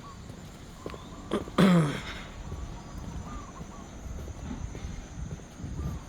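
Footsteps on a paved path with faint bird chirps in the background; about a second and a half in, a man's short, loud vocal sound, falling in pitch, like a cough or grunt.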